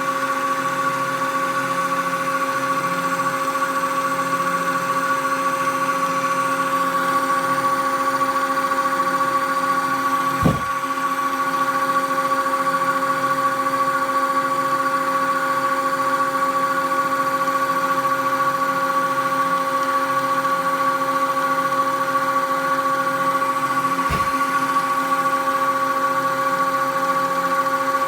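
SpectraLight 200 benchtop CNC mill milling wood with a 1/8-inch end mill at a very slow feed: its spindle and stepper motors make a steady whine of several fixed tones. A brief knock comes about ten seconds in and another near the end.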